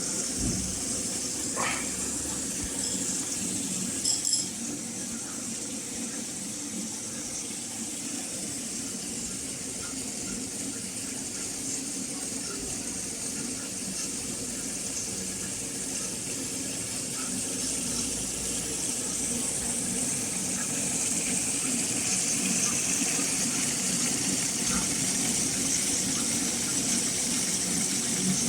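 Gorenje WA72145RD washing machine filling with water: a steady rush of incoming water with a couple of faint clicks in the first few seconds, growing a little louder in the second half.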